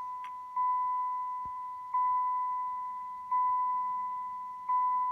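The 1991 Chrysler New Yorker Fifth Avenue's dashboard warning chime sounding with the key switched on before cranking: a single-tone ding struck about every second and a half, each note fading before the next.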